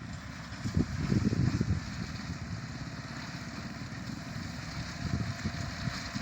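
Engine of heavy road-construction machinery running with a rough, uneven low rumble that swells for about a second near the start and again near the end.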